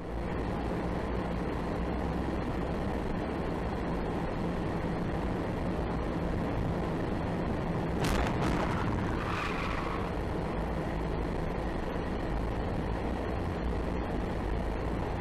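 Steady road and engine noise from a vehicle. About eight seconds in comes one sudden loud bang, with a ringing tail that fades over the next two seconds.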